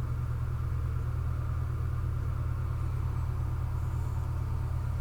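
A steady low hum or rumble with no change in level or pitch.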